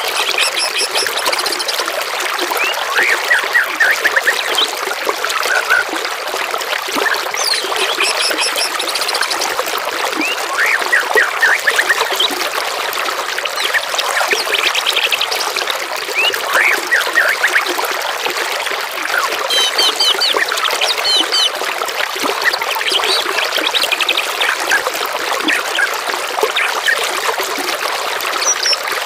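Several songbirds singing in short, varied phrases of chirps, whistled glides and rapid high trills over a steady sound of trickling, flowing water.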